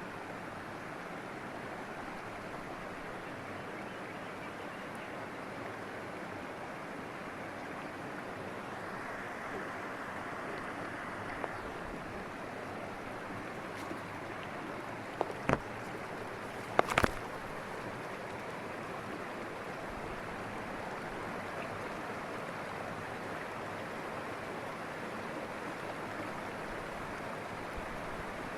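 River water flowing steadily. A few sharp clicks or knocks stand out around the middle, the loudest a close pair about 17 seconds in.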